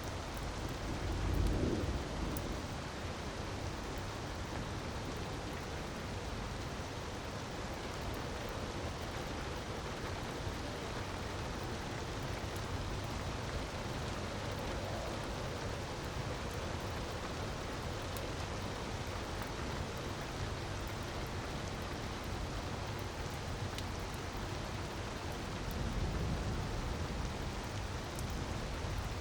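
Steady hiss of falling water with faint crackles from a fireplace fire. Two low rumbles swell up, one about a second and a half in and one near the end.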